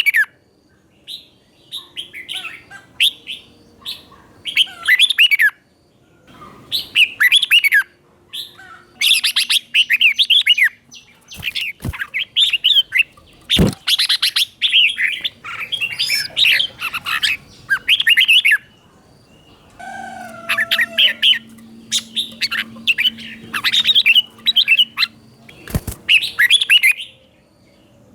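Red-whiskered bulbul singing: short bubbling phrases of quick, warbled notes, repeated with brief pauses between them. A few sharp clicks sound in between the phrases.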